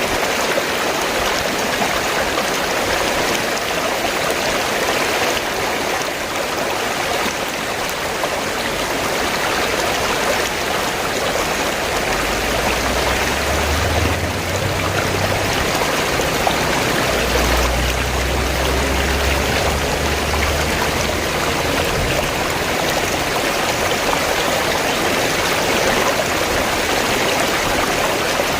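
River water rushing steadily. A low rumble comes in underneath for about ten seconds midway.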